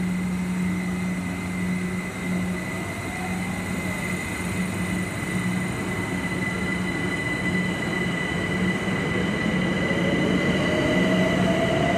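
London Overground Class 378 electric trains in a covered underground station: one pulls out along the platform with a steady hum and a thin high tone. Over the last few seconds a whine rises in pitch.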